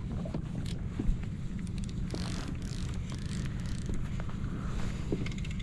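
Steady low wind rumble on the microphone, with a few light knocks, one about a second in.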